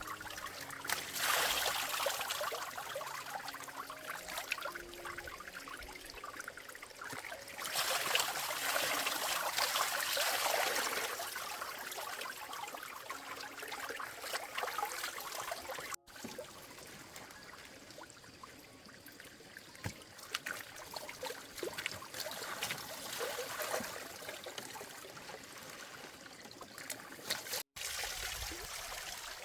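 Water trickling and running steadily, louder for a couple of stretches, with two momentary dropouts where the footage is cut.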